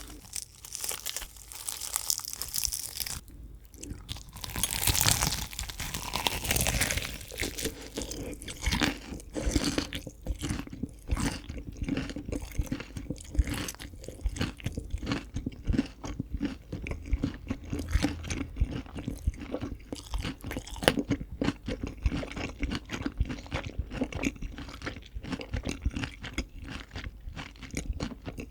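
Crispy fried chicken being bitten and chewed close to the microphone, with dense crunching from about eight seconds in after a few seconds of rustling.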